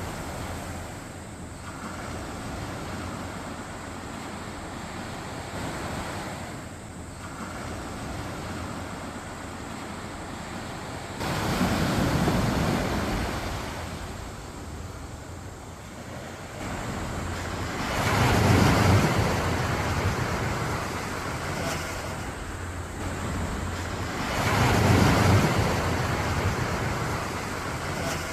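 Quiet waves washing up onto a sandy beach in a steady hiss of surf. Three bigger waves break about 11, 18 and 24 seconds in, each swelling and then slowly fading back.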